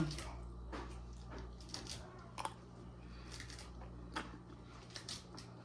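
Faint, scattered clicks and taps of food and kitchenware being handled, over a steady low hum.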